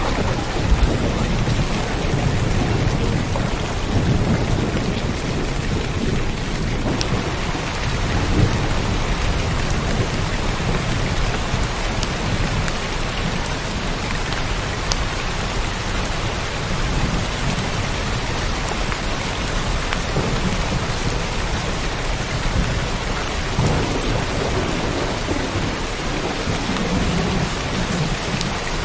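Steady heavy rain with low rumbling thunder that swells and fades underneath.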